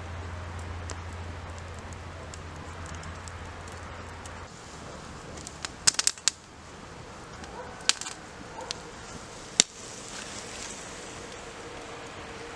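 Campfire crackling with faint scattered ticks and five loud, sharp pops: three close together about six seconds in, then single pops near eight and ten seconds.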